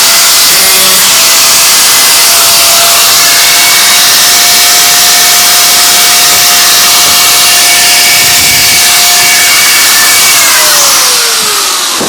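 Angle grinder running loud and steady on metal with a high whine, then switched off about ten and a half seconds in and spinning down with a falling pitch.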